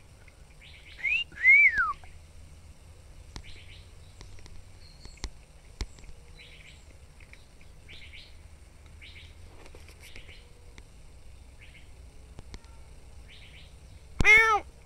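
Faint bird chirps come and go in the background. About a second in there are two loud, clear whistled notes, the second sliding down. Near the end a cat meows once.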